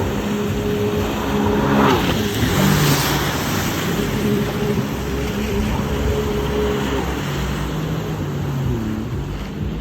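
An engine running, its pitch holding steady for several seconds and dropping twice, then rising again near the end.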